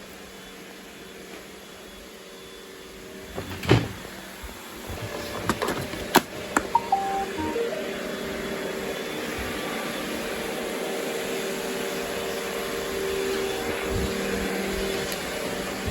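A few sharp clicks, then a robot vacuum cleaner starts up about halfway through and runs with a steady motor hum and whir.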